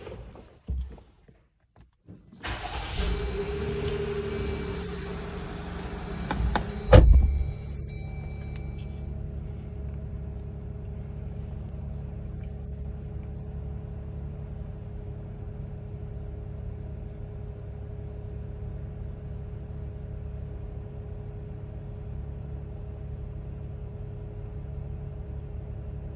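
2018 Jeep Wrangler JL engine starting, with a loud burst as it fires about seven seconds in, then idling steadily. No metal-grinding noise is heard.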